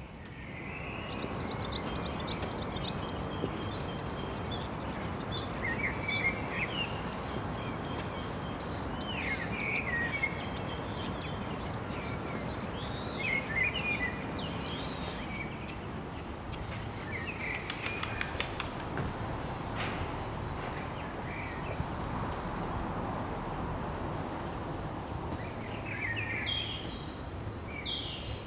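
Small birds chirping and calling on and off, in short high notes and quick glides, over a steady background noise.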